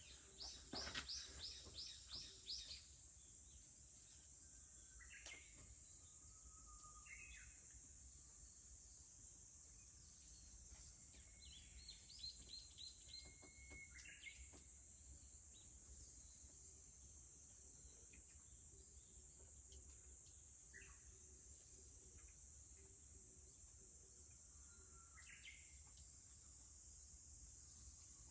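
Faint outdoor summer ambience: a steady high-pitched drone of cicadas, with songbirds calling over it. A rapid run of notes comes at the start and another about twelve seconds in, with a few short single calls between.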